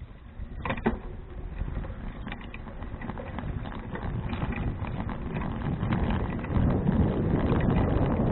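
A bicycle on the move, heard through an action-camera microphone: wind buffeting the mic and tyres rolling over the path, with scattered clicks and rattles. The sound starts suddenly and grows steadily louder as the bike gathers speed.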